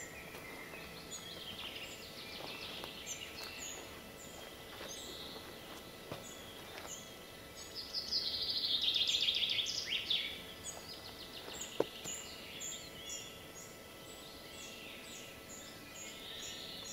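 Songbirds singing, several at once: fast trills and short repeated high chirps, the loudest trill about eight to ten seconds in. One sharp click about twelve seconds in.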